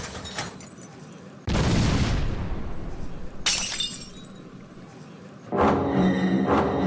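Cartoon car-crash sound effect: loud crashing with glass shattering, in two long noisy stretches. Dramatic music starts about two thirds of the way in.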